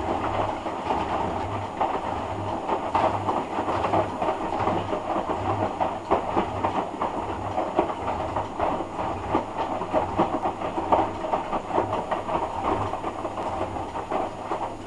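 Hoover Dynamic DYN11146PGBCH washing machine on its rinse cycle: the drum turning with wet laundry tumbling and sloshing over a motor hum that comes and goes. The drum stops suddenly at the end.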